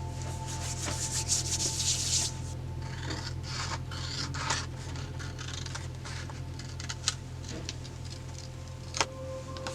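Hands rubbing and scratching on paper, strongest for about a second near the start and lighter later, with a few sharp ticks, over soft background music.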